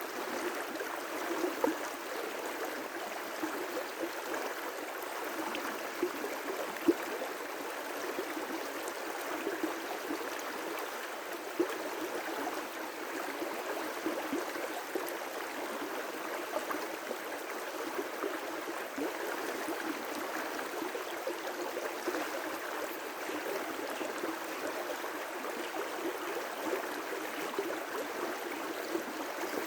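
River rapids: water rushing steadily over rocks, with brief louder splashes now and then.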